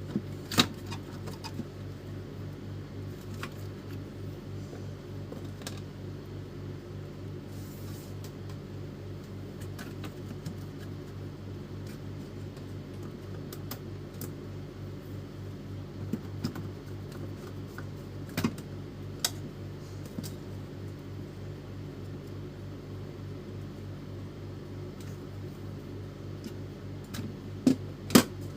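Small printer DC motor (a used replacement for an Epson L310) running steadily with a low, fast-pulsing hum while being tested, with a few sharp clicks of handling or mechanism near the start, midway and near the end.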